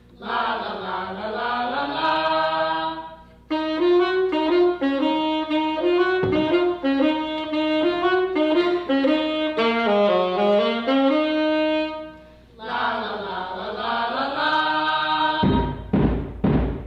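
Saxophone playing a slow melody, with long swooping slides down and back up at the start and again later, and a run of stepping notes in between. A few heavy low thumps, like drum beats, come near the end.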